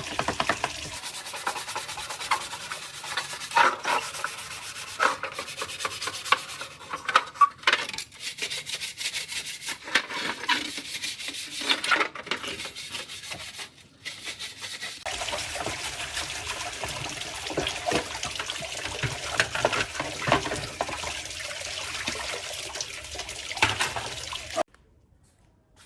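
Hand sanding or abrading of a part of a rusty old table fan: rapid scratchy rubbing strokes. The sound changes abruptly at several points and cuts off just before the end.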